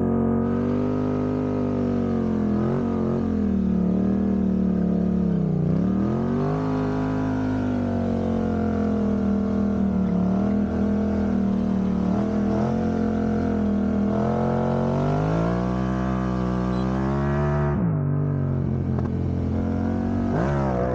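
Yamaha MT-07's 689 cc parallel-twin engine running under way, its pitch rising and falling with the throttle, with a sharp dip in revs about six seconds in and an abrupt change about three seconds before the end.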